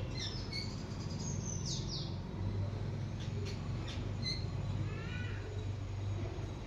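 Small birds chirping outdoors: scattered short high chirps and quick falling whistles, with a brief run of calls near the end, over a steady low hum.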